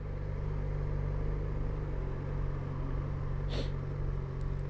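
Motorcycle engine running steadily with road and wind noise, the engine note shifting slightly about two seconds in, and a brief hiss a little after three and a half seconds.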